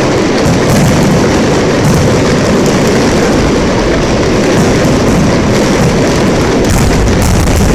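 Fireworks going off in a dense, continuous barrage, the bangs blurring into one loud, steady rumble.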